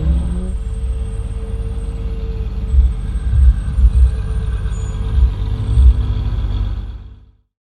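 Ferrari F12-based Novitec Rosso N-Largo V12 with aftermarket exhaust: revs fall away from a blip, then a loud, uneven low rumble with several heavier thumps. The sound fades and stops about seven seconds in.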